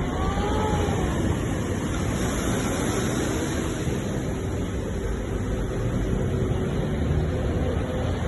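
Ocean surf: a steady wash of waves breaking, with a deep low rumble and no breaks. A few faint thin gliding tones sound in the first second.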